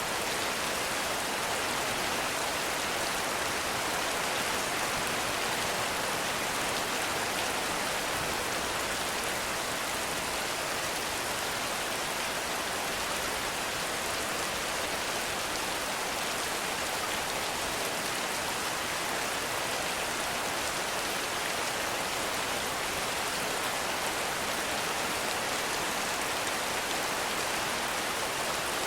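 Heavy rain falling steadily, an even hiss of many drops with no thunder or breaks.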